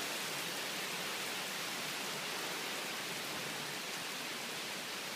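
Heavy thunderstorm rain and wind making a steady, even hiss.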